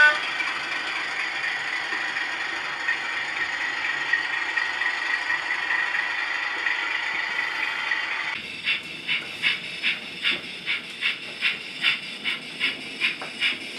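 OO gauge model steam locomotive with sound effects: a steady hiss with a faint whine, then from about eight seconds in, steam chuffs at about three a second.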